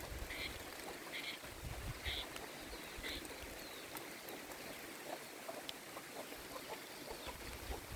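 A bird calling with short repeated notes, about one a second for the first three seconds, then fainter chirps over a low rural background.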